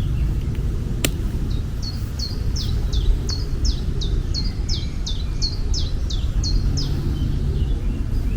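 A bird calling in a fast run of short, high, down-slurred notes, about three a second, over a steady low rumble. A single sharp click comes about a second in.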